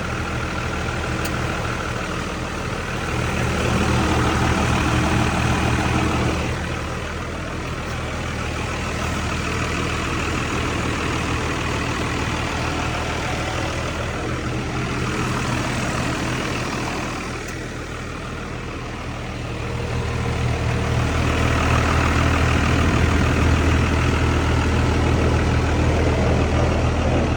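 A 1991 Dodge D350's first-generation 5.9-litre Cummins inline-six turbo diesel idling steadily, growing louder for a few seconds twice.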